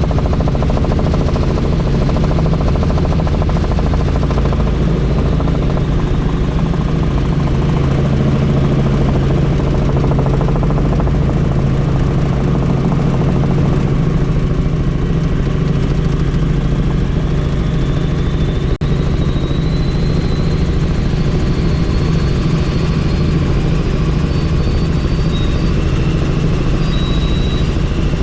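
Steady drone of a helicopter in flight, rotor and engine noise heard from on board, with one very brief dropout near the end.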